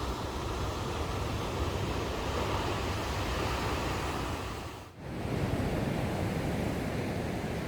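Heavy ocean surf breaking on the beach, a steady rushing wash. It drops out briefly about five seconds in, then carries on.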